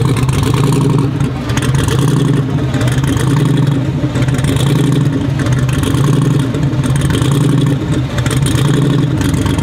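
A V8 truck engine idling loudly close by, with a steady low drone that swells and eases in a slow, even lope about once a second.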